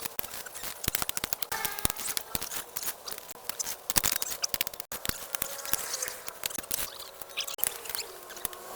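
Rapid, irregular clicking, tapping and scraping of objects being handled, with a few faint thin squeaks.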